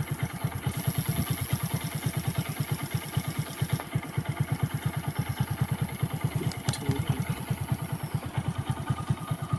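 Motorcycle engine idling steadily, with an even pulse of about eight or nine beats a second.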